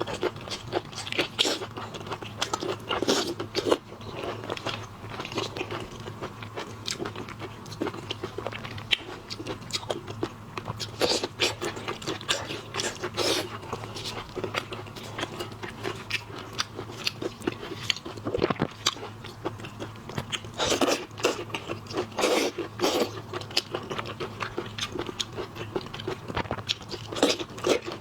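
Close-miked eating of shellfish: irregular crunches and clicks of biting and chewing through shrimp shells and meat. A steady low hum runs underneath.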